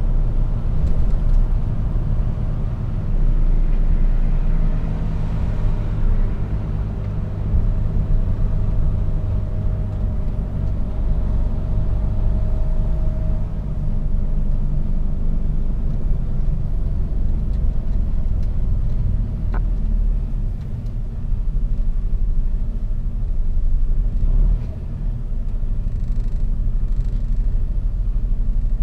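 Mercedes-Benz Actros truck's diesel engine running, with a steady low rumble of engine and road noise. A single short click comes about two-thirds of the way through.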